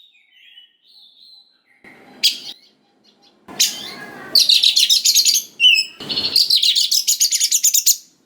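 Oriental magpie-robin (kacer) singing: a few soft whistled notes, then two long, loud, rapid rattling trills, broken by harsh scratchy notes.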